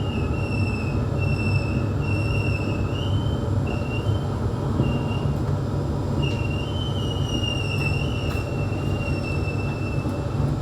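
SMRT C151 metro train running on the rails with a steady low rumble, and a high wheel squeal that comes and goes several times, wavering a little in pitch.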